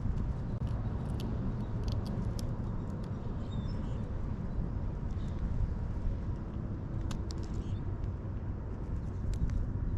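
Steady low outdoor rumble with scattered faint, sharp clicks, a few near the start and a cluster about seven seconds in.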